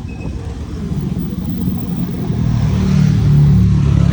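A car driving past, its engine and road noise swelling to its loudest about three and a half seconds in.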